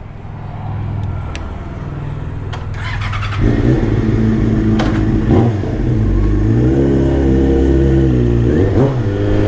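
A vehicle engine running and getting louder, becoming much louder about three and a half seconds in, with its pitch rising and falling as it revs later on.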